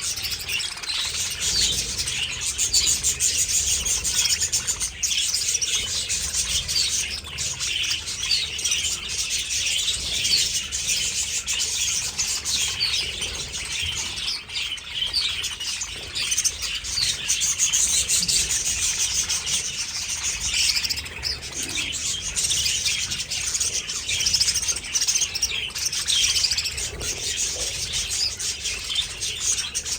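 A flock of budgerigars chattering and chirping together, a dense, continuous mass of overlapping high chirps.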